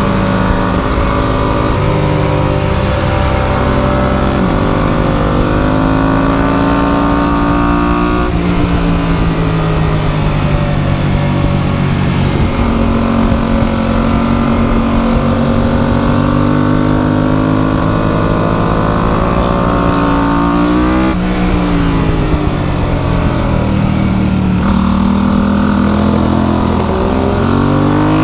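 Motorcycle-type engine running continuously, its pitch rising and falling as the revs change, with two sharp drops in pitch, about eight and twenty-one seconds in, followed by climbing revs.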